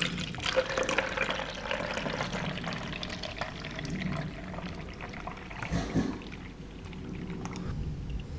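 Milk being poured into a cup, splashing steadily for a few seconds and then tailing off, followed by a single knock.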